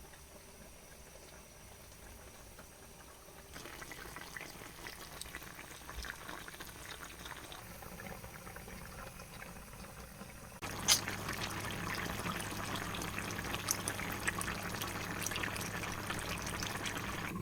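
Curry chicken simmering in a pot: a bubbling, crackling hiss that gets louder about ten seconds in, with a single light knock just after.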